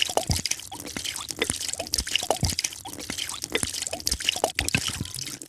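A drink being poured, heard as a quick, irregular stream of drips and small splashes of liquid.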